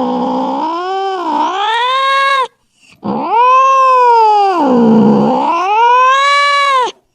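Domestic cat yowling angrily in long, wavering wails that sink low in pitch and rise again. One wail breaks off about two and a half seconds in; a second starts about half a second later and cuts off just before the end.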